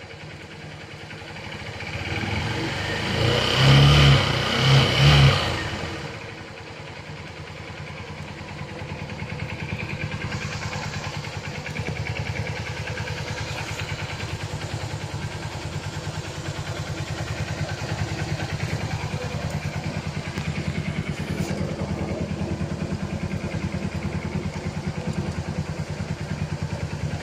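Small motorcycle-type engine running on compressed natural gas (CNG), revved up and blipped sharply three times about four to five seconds in, then settling into steady, even running.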